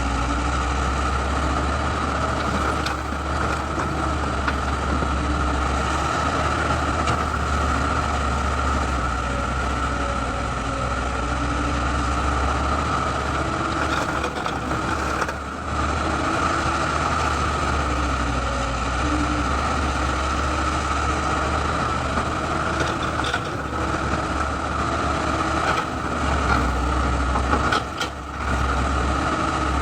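Excavator's diesel engine running steadily, with a constant low rumble and a steady whine, dipping briefly twice.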